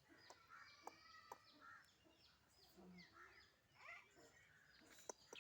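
Faint, repeated high chirping of small birds, each chirp a quick falling note, with a few soft clicks in between.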